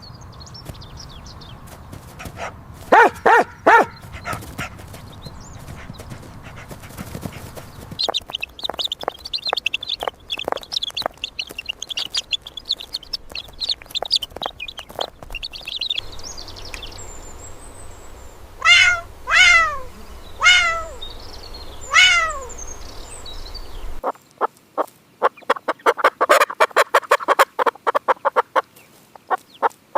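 A string of recorded animal calls, changing about every eight seconds: three loud calls in quick succession, then high twittering, then four loud calls that fall in pitch, then a fast run of short repeated notes.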